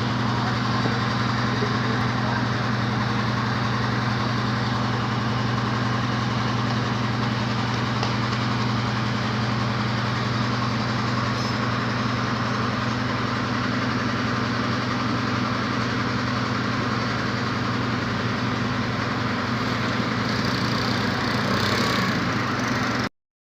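Steady low hum of a running motor, with an even hiss above it and no change in pitch or level.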